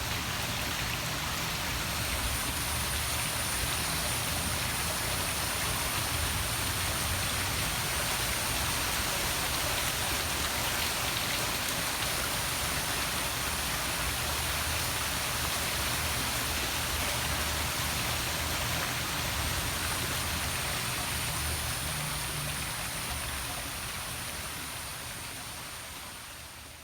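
Poolside waterfall splashing steadily into a swimming pool, a dense, even rush of falling water with a thin, steady high tone above it. It fades out over the last few seconds.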